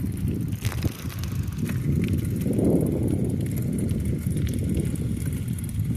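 Bicycle being ridden on a street: a low rumble of tyres and wind on the microphone that swells twice, with a few sharp clicks and rattles from the bike.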